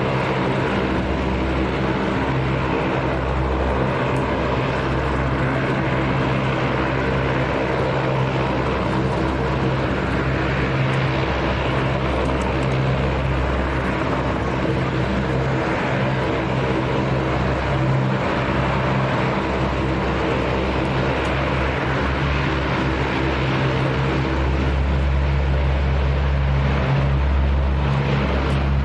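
Steady engine noise: a loud, continuous drone with a low hum and several fixed tones that do not change in pitch.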